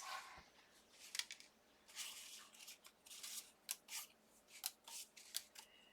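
Cardstock die cuts being handled and counted out by hand: faint, irregular short paper rustles and clicks as pieces slide and are set down.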